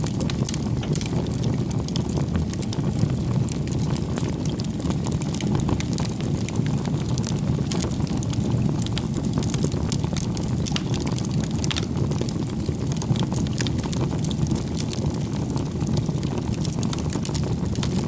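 Wood bonfire burning with a steady low roar and many small sharp crackles and pops throughout.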